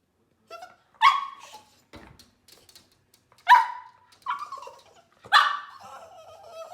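West Highland Terrier puppy barking: four sharp barks spread over a few seconds, the last one trailing off into a drawn-out whine near the end.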